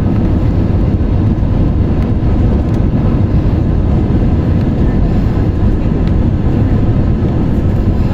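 Airliner cabin noise: a loud, steady rumble of jet engines and airflow with no breaks or distinct events.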